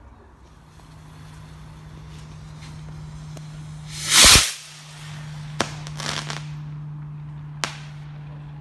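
Garden fireworks going off: a hiss builds for a few seconds, then a loud bang about four seconds in, followed by two sharp cracks and a short crackle. A steady low hum runs underneath.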